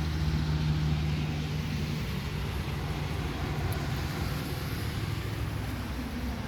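A motor vehicle's engine hums steadily over background road-traffic noise, the hum fading somewhat after a couple of seconds.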